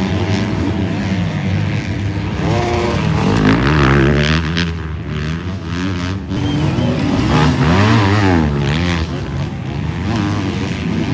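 Motocross bikes racing past, their engines revving up and down again and again as they shift and work the throttle, with more than one bike heard at a time.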